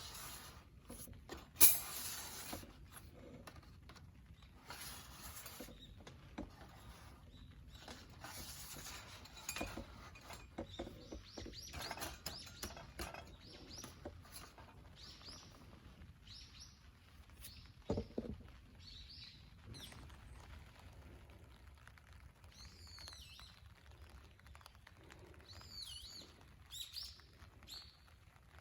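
Scattered clicks and rustles through the first part, the loudest a sharp click about two seconds in. Near the end a bird calls about three times in short, curving whistled notes.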